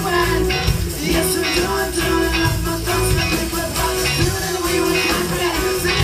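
A live rock band playing a dance-rock groove: a steady drum beat, bass and guitar, loud and dense, with no singing clear in it.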